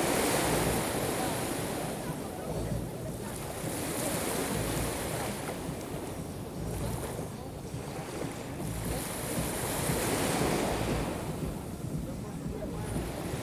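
Black Sea surf breaking and washing up the shore, the wash swelling and ebbing every few seconds, with wind buffeting the microphone.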